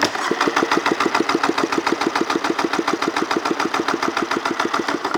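1996 Polaris SLX 780 three-cylinder two-stroke jet ski engine cranked over by its starter with a compression gauge on the magneto-side cylinder: a steady, rapid chugging of even pulses that starts and stops abruptly. The cylinder reads 120 PSI, even with the other two, a sign of nice even compression.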